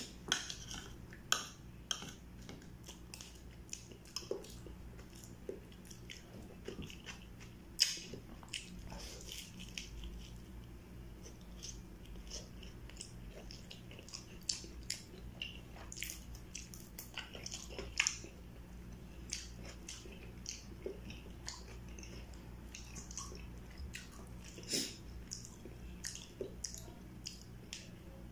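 Close-miked chewing and biting of kwek-kwek, battered quail eggs, with many short, irregular clicks from the mouth and a metal spoon on the plate. A steady low hum runs underneath.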